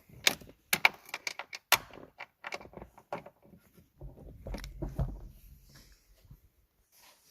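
Hand tools and metal parts clicking and clinking, a quick run of sharp clicks in the first two seconds, then a low rumble with a few knocks about four seconds in.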